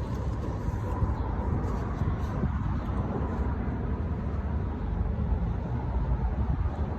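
Steady low outdoor rumble, without separate events.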